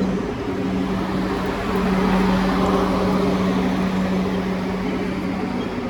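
Class 444 Desiro electric multiple unit running at the platform: a steady low hum under a wide rush of noise that swells about two seconds in.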